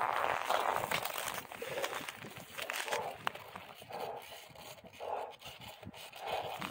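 Crunching steps in dry, very cold snow, a grainy crunch repeating roughly once a second.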